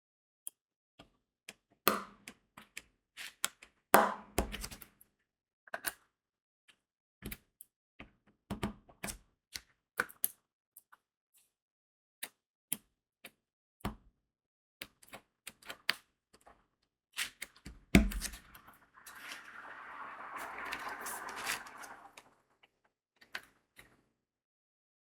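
Irregular small clicks and taps of crystal diamond-painting drills being picked up and pressed onto the sticky canvas, with a few louder knocks. About three-quarters of the way through, a few seconds of steady rattling like loose beads shaken in a plastic tray.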